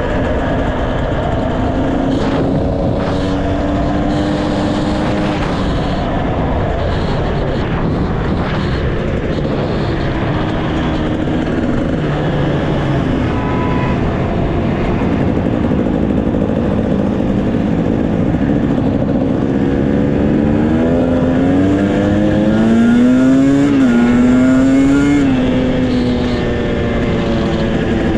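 Motorcycle engine running under way, holding a fairly steady pitch, then revving up and down several times in quick succession near the end, over steady wind and road noise.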